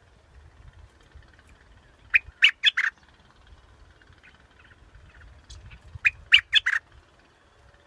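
A dok taeng bulbul (yellow bulbul) calling: two short bright phrases of four or five quick notes each, about four seconds apart.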